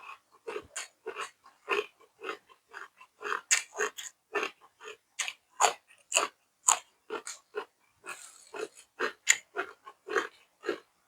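A person chewing food close to the microphone, with a steady rhythm of about two chews a second.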